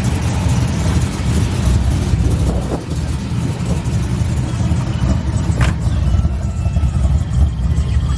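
A car's engine running loud, with a deep, steady rumble.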